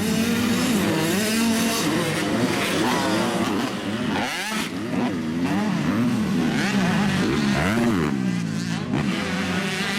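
Several motocross bike engines revving up and down as the riders accelerate and shift gears, their pitches rising and falling and overlapping, with a short lull about four seconds in.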